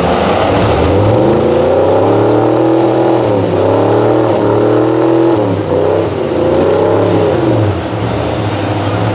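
Truck engine revving hard: the pitch climbs steeply about a second in, then holds at high revs with three brief dips and recoveries.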